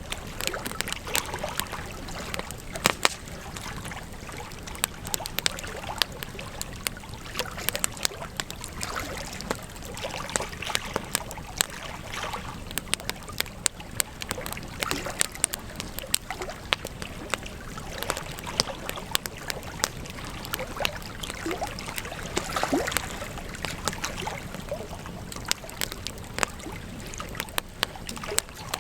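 Campfire crackling: many irregular sharp pops and snaps of burning wood over a steady hiss of flames.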